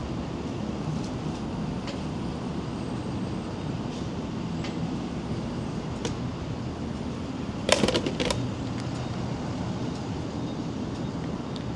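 1990 Harley-Davidson FXR's Evolution V-twin running steadily, a low even rumble. A short cluster of sharp clicks about eight seconds in.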